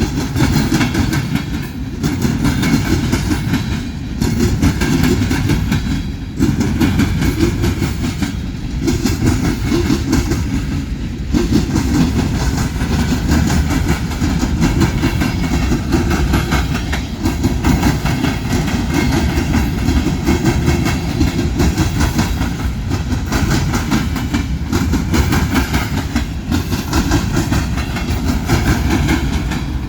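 A freight train's cars rolling past on the rails: a steady rumble and rattle that dips briefly about every two seconds as each car goes by.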